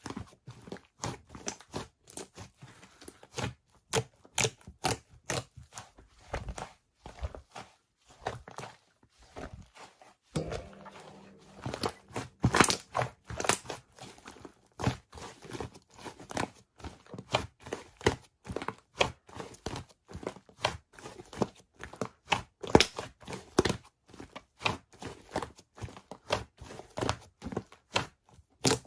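Slime being squeezed and worked by hand, giving a dense, irregular run of sticky pops, clicks and crackles.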